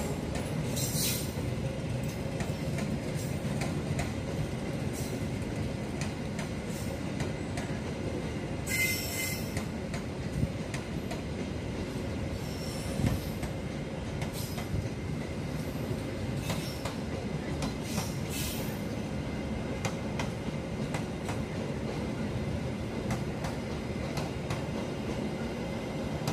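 Passenger train of stainless-steel coaches rolling past on the rails: a steady rumble of wheels on track, with brief high-pitched wheel squeals a few times and a single sharp knock about halfway through.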